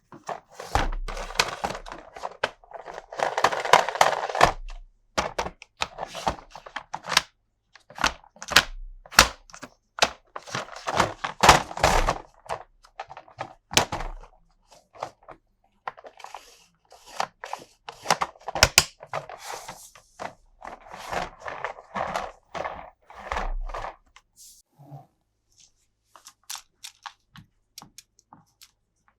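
Toy and packaging being handled: a run of sharp plastic clicks and knocks with several stretches of crinkling and tearing, fading to scattered light clicks near the end.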